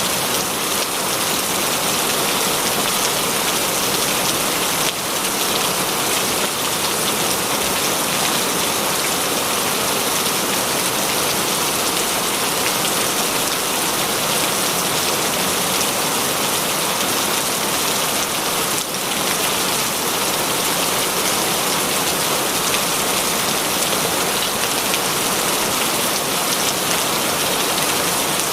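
Steady heavy rain, an even dense hiss of falling rain.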